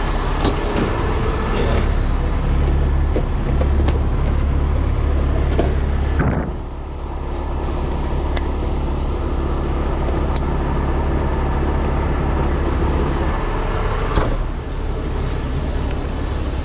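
Truck engine running steadily with a low, even drone, a few light clicks and knocks over it; the sound shifts briefly about six seconds in.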